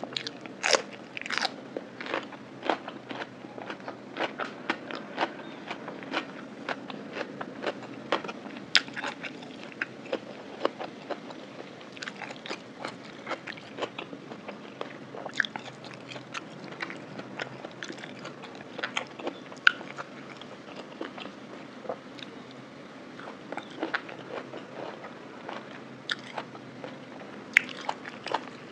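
Close-miked chewing of crisp raw cucumber and salad in a spicy lime sauce, with many sharp, irregular crunches.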